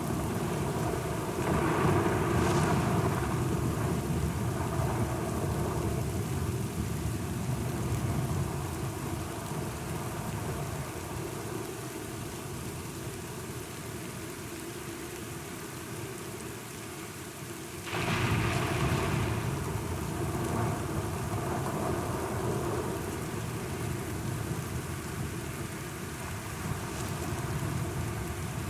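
Steady rain falling, with rolling thunder: one rumble swells about two seconds in, and a sharper peal breaks out about eighteen seconds in, then rolls away.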